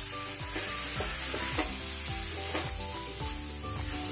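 Cut mushrooms and masala sizzling in hot oil in a steel kadai while a spatula stirs them round the pan. Background music with held notes and a steady low beat plays under it.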